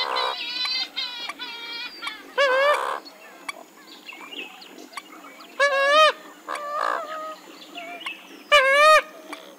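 Western swamphen calling: a quick run of short nasal notes, then several loud, drawn-out honking calls spaced a few seconds apart, each bending up and down in pitch.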